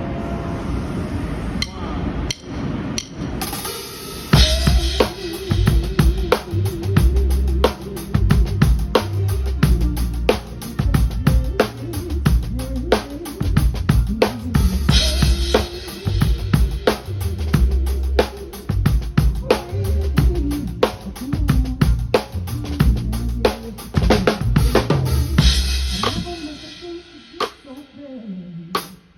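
Live band playing through a song section at a sound check: drum kit, bass and other instruments. It starts softer, and the full band with drums comes in about four seconds in. It dies away near the end with a low falling slide.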